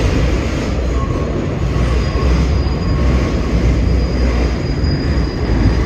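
R62 subway car running through a tunnel, heard from inside the car: a loud steady rumble of wheels on rail and the car body. A faint high wheel squeal comes in about a second in and holds.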